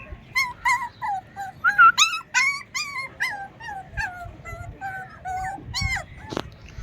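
Puppies whining and yelping: a quick run of short, high-pitched cries one after another.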